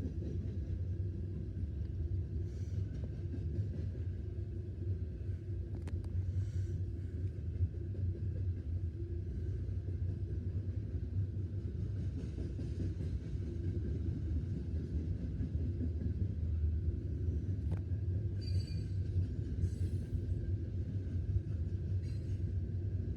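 Loaded coal train's freight cars rolling past in a steady low rumble, with a couple of sharp clicks from the wheels.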